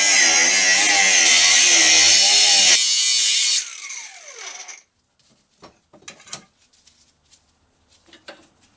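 An electric angle grinder cutting a metal gearbox mount bracket, its pitch wavering under load. About three seconds in it is switched off and the disc spins down with a falling whine. A few clanks of the metal being handled follow.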